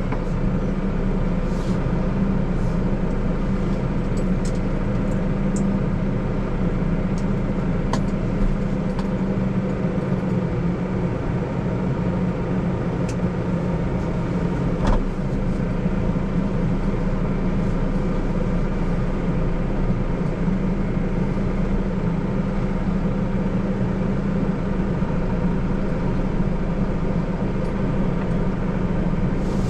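Deutz-Fahr 5120G tractor's diesel engine running steadily at working speed, a constant drone, with a couple of faint ticks about 8 and 15 seconds in.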